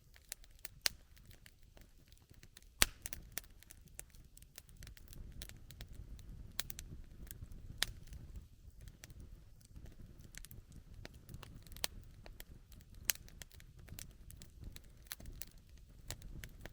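Wood campfire crackling, with many irregular sharp pops over a low steady rumble. The loudest pop comes about three seconds in.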